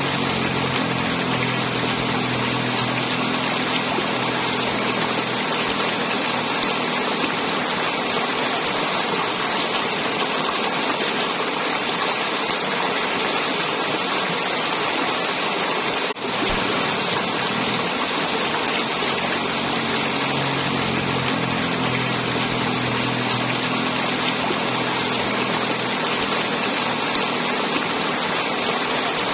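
River water flowing and gurgling in a steady rush, with a momentary drop in level about sixteen seconds in.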